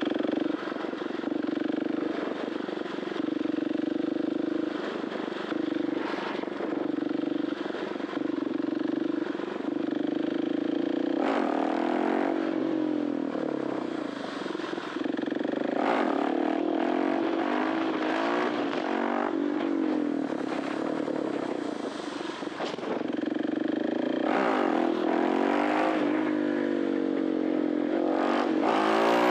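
KTM 690 SMC R's 693 cc single-cylinder four-stroke engine, breathing through an Arrow titanium exhaust, revving up and easing off again and again while riding. The pitch climbs and drops several times, with short breaks where the throttle is snapped or a gear changes.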